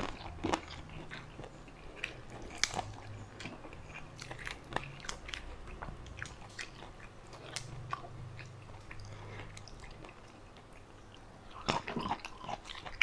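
A person chewing rice and eel curry close to a clip-on microphone: wet mouth sounds and lip smacks, with scattered small clicks and a busier patch near the end.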